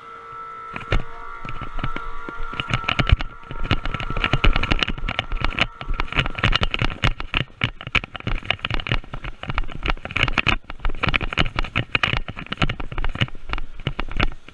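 Airsoft guns firing: rapid, irregular volleys of shots and BB impacts, sometimes in quick bursts. A steady high tone sounds alongside for the first five seconds or so.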